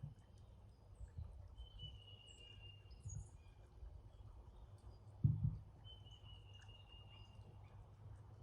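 Brown-headed cowbirds at a feeder: two long, thin, high whistles, each falling slightly, about four seconds apart. A low thump a little past five seconds, over a steady low rumble.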